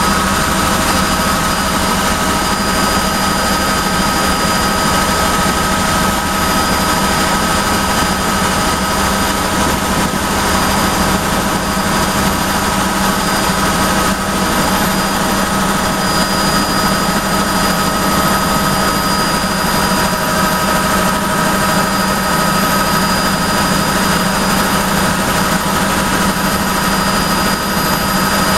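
Helicopter in flight: steady engine and rotor noise with a low hum and several constant high-pitched whines, unchanging throughout.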